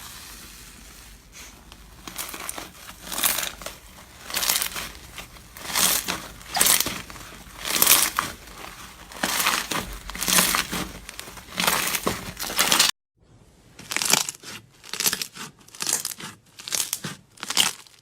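Slime being squeezed and pressed by hand, each press a crackling squish, about one a second. The sound breaks off suddenly about two-thirds of the way through and starts again with quicker presses.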